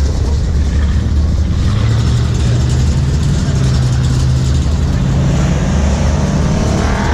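Car engine running at a steady low rumble, then rising in pitch over the last two seconds as it revs up.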